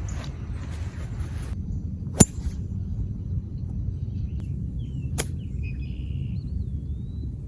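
Golf club striking a ball: one sharp crack about two seconds in, with a second, fainter click about three seconds later. A steady low rumble runs underneath.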